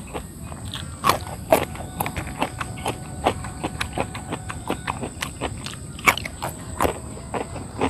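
Close-up chewing of crunchy raw papaya stem: irregular crisp crunches and mouth clicks, several a second.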